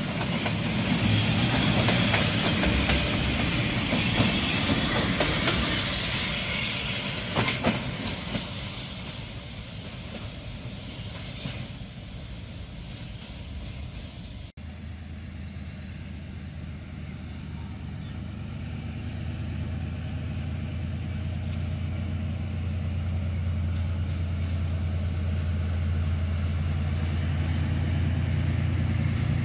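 A train running past on steel rails, with thin high wheel squeal and clattering, fading somewhat after about eight seconds. After a sudden cut about halfway through, a D19E diesel-electric locomotive's engine hums deep and steady, growing slowly louder.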